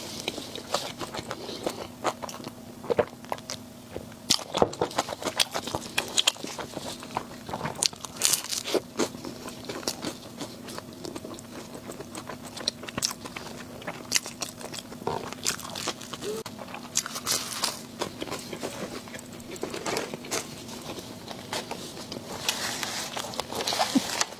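A person biting and chewing crunchy food, a run of irregular crunches and crackles.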